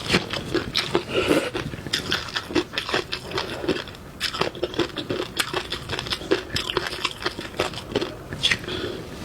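Close-miked eating: a person biting and chewing crunchy food, with many quick, irregular crunches and crackles.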